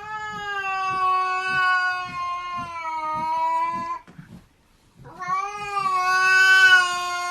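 Cat yowling: two long, drawn-out calls, each held at a steady pitch that sinks slightly. The first lasts about four seconds, and the second begins about a second after it ends.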